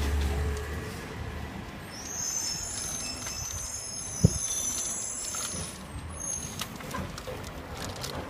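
Garbage truck at work: a low engine hum dies down in the first second, then a high-pitched squeal of several thin tones runs from about two seconds in to about six, with a single sharp clack in the middle and a few lighter clicks near the end.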